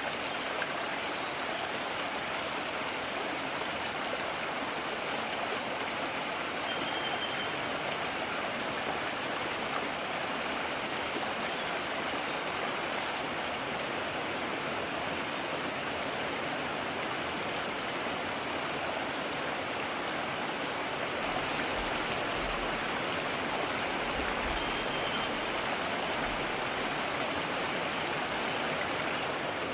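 Mountain stream flowing, a steady rush of water, with a few faint short high chirps over it.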